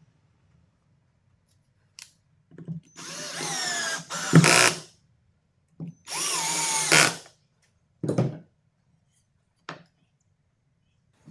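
Electric drill run twice for about a second each, its motor pitch shifting under load and each run ending in a louder burst. Short knocks of handling in between.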